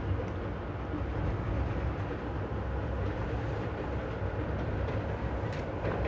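Amtrak passenger train rolling along the track, heard from on board: a steady low rumble of wheels on rail, with a faint click near the end.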